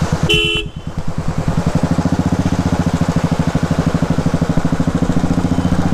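Royal Enfield single-cylinder motorcycle engine idling in a steady, even beat. A brief pitched beep sounds about half a second in.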